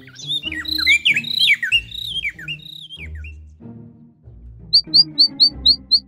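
Small songbird chirping: a run of quick, falling chirps over the first three seconds, then from near the end a fast, even series of short chirps, about four a second. Soft background music runs underneath.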